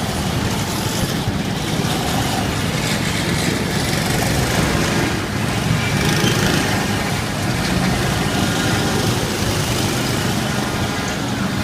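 Small engines of miniature parade trucks running, with steady outdoor street noise.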